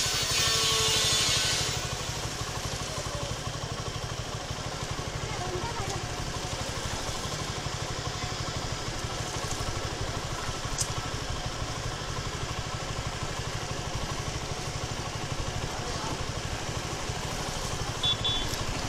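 Suzuki Gixxer 250's single-cylinder engine running steadily as the motorcycle rides slowly along a street. A louder rush of noise fills the first two seconds, and a few short high beeps sound near the end.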